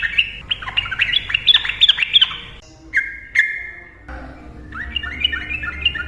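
Sooty-headed bulbul singing a fast, continuous chattering run of notes. The run breaks off about halfway, with a couple of short whistled calls, then starts again.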